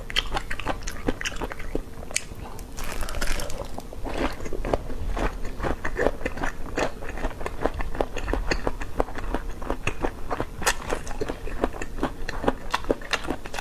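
Close-miked mouth sounds of a person biting and chewing a whole cooked sea cucumber: a steady run of short clicks and smacks.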